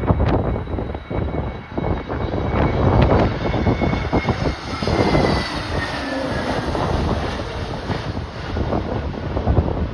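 Jet airliner engines whining as an aircraft passes, the whine sliding slowly down in pitch in the middle, under heavy gusting wind buffeting the microphone.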